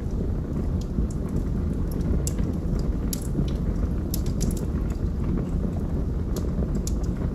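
Fire burning in a fireplace: a steady low rumble with irregular sharp crackles and pops scattered through it.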